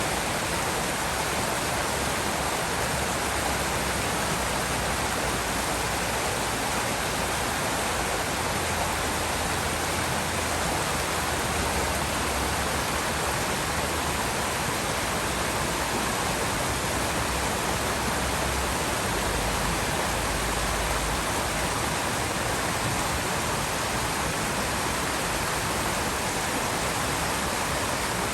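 River water flowing, a steady, even rush of water with no breaks.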